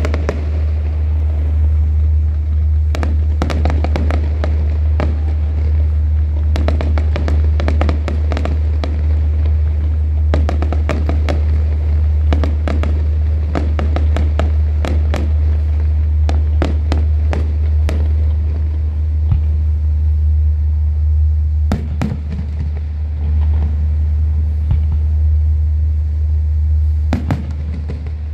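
Fireworks display: a rapid run of bangs and crackling bursts, thinning out in the last third, over a steady low hum.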